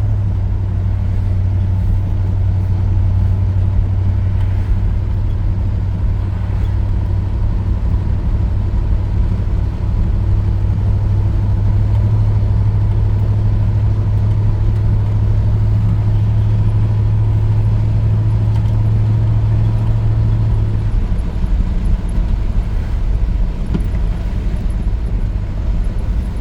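1983 GMC C2500 pickup under way, its engine and road noise heard from inside the cab as a steady low drone. The drone's deep hum drops away about three-quarters of the way through.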